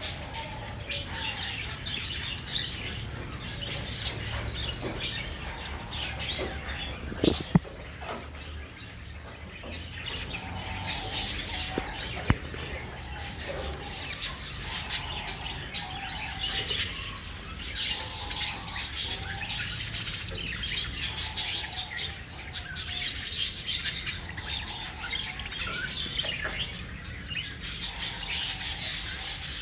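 Many small parrots chirping and chattering continuously, with a couple of sharp clicks about seven and twelve seconds in.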